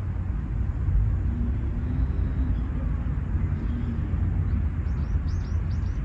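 Outdoor park ambience: a steady low rumble throughout, with a bird giving a quick series of short, high, down-slurred chirps in the last second or so.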